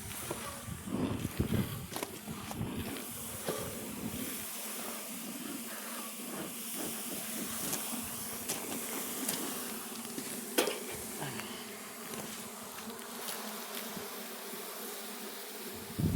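Russian honey bees buzzing steadily in an opened hive. There are some handling knocks and rustling in the first few seconds and a single sharp click about ten seconds in.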